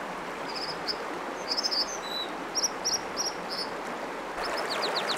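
American dipper singing over the rush of a mountain stream: short high notes and trills, then a quick run of downward-sweeping notes near the end.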